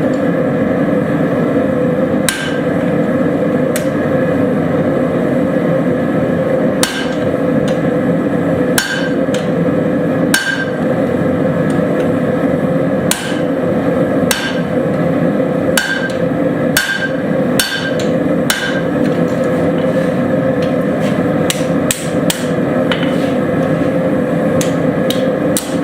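Hammer blows on hot steel at the anvil, irregular single strikes with a short ring after each, over a loud steady roar.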